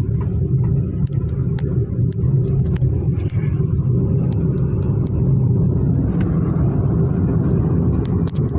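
A car on the move, heard as a steady low rumble of engine and tyres, with scattered light clicks and rattles.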